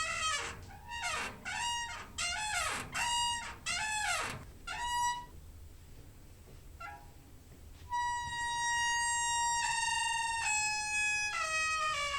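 Door hinge squeaking. A run of short creaks bends up and down in pitch for the first five seconds. After a pause, a long drawn-out squeak starts about eight seconds in and steps down in pitch near the end.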